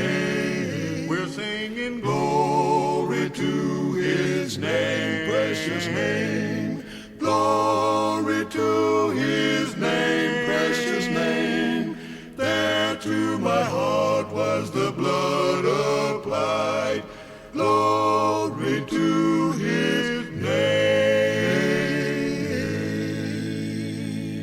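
A gospel quartet singing a cappella in held, sustained chords. The voices fade away near the end as the hymn closes.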